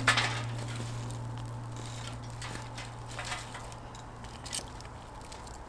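Scattered short clicks and crackles over one low held note that fades slowly, with a louder sudden knock right at the start.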